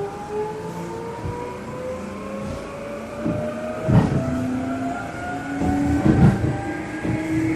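Seibu New 2000 series electric train's traction motor whining with a steadily rising pitch as the train picks up speed. This motor car is known for an abnormal faint whine, the so-called 'jet sound'. Two heavy thumps come about two seconds apart in the second half.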